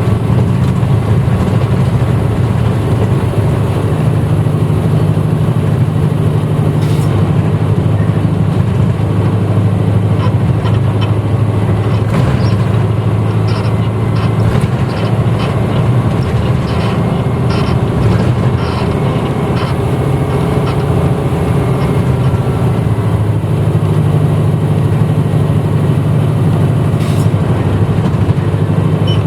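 Running sound of a 1994 Hino Blue Ribbon U-HT2MPAA city bus, heard from inside the cabin while it is under way: a steady low engine drone whose pitch shifts a little, with a few sharp clicks and rattles.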